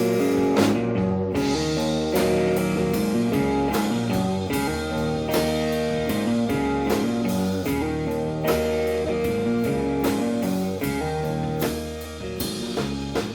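Blues-rock band playing an instrumental intro: electric guitar over bass and drum kit at a steady beat.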